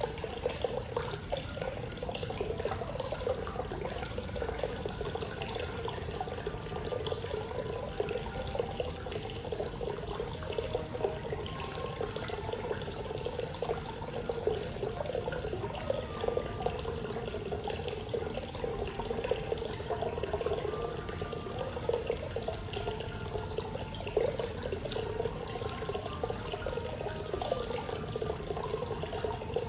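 Natural hot spring water pouring steadily into a bath, an unbroken splashing wash.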